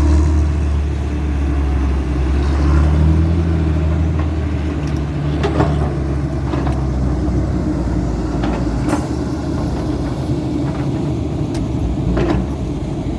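Heavy diesel earthmoving machinery running steadily with a deep, loud drone, with a few sharp metallic clanks or knocks scattered through it.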